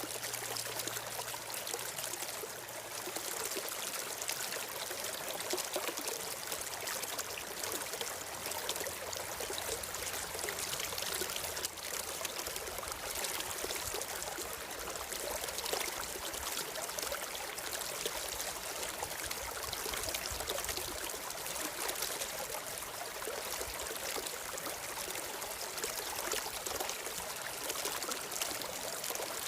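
Stream water flowing and trickling steadily, with a low rumble underneath for several seconds in the middle.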